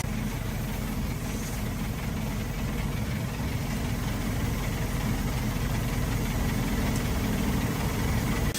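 Toyota HiAce engine idling steadily, a low, even rumble with fast regular firing pulses.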